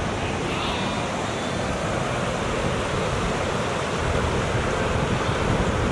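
Steady rushing outdoor noise with a low, fluttering rumble, growing slightly louder about four seconds in.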